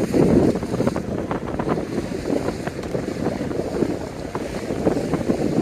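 Wind buffeting the microphone: a rough, gusty rumble with brief crackles.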